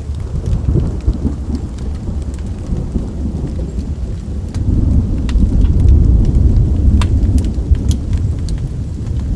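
Rolling thunder rumbling under steady rain, swelling louder about halfway through and easing near the end. Scattered sharp crackles and pops of a wood fire sound over it.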